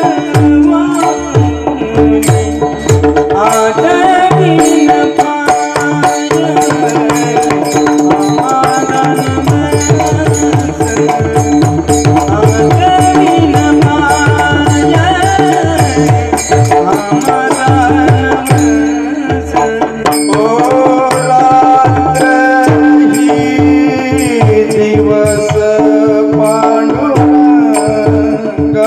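Marathi devotional bhajan music: fast tabla playing with sliding bass strokes, over steady held drone notes and a moving melody line.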